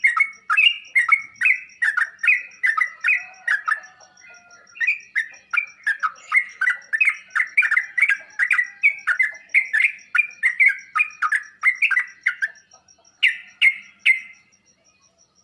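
Sooty-headed bulbul (trucuk) calling, a fast run of short chattering notes repeated about two or three times a second, pausing briefly and giving a last few notes near the end.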